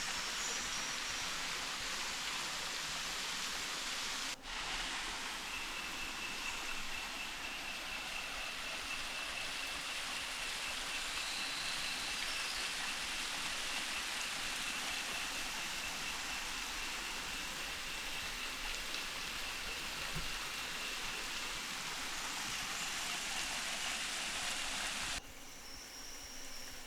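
Steady, even rush of flowing water, briefly broken about four seconds in. Near the end it cuts off abruptly to a quieter forest background with insects calling.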